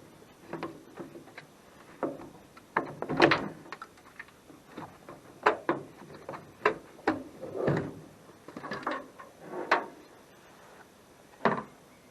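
Irregular clicks, knocks and clatters of hand work on metal car parts, as a windscreen wiper arm is worked up and pulled off its spindle, loudest about three seconds in, with one last knock near the end.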